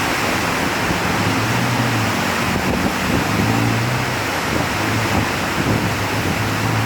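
Heavy rain pouring down in a steady hiss, with a low hum that swells and fades underneath several times.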